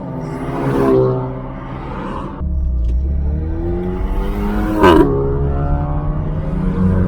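Car engine running, its pitch rising to a loud peak about five seconds in and then dropping back. The sound changes abruptly about two seconds in.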